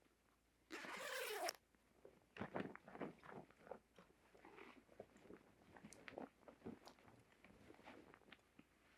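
Rustling and crackling of an insulated body suit's fabric as someone climbs into it, with one brief louder rasp about a second in.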